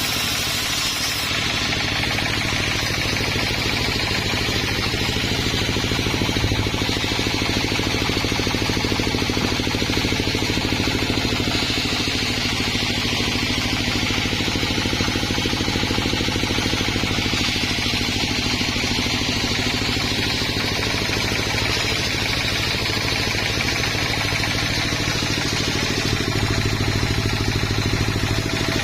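Sawmill's engine running steadily at a constant speed, with a steady rattle.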